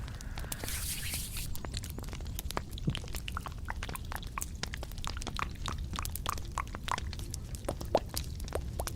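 Close-miked ASMR trigger sounds: a dense run of small, irregular clicks and taps, some with a brief ringing tone, with one louder click near the end.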